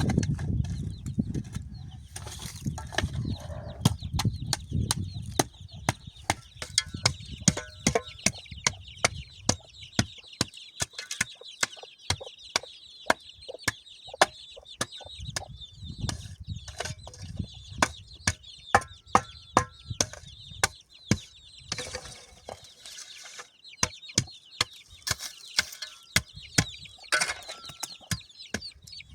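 Steady high chirping of birds, likely fowl, with many sharp taps and clicks at an irregular pace of a few a second.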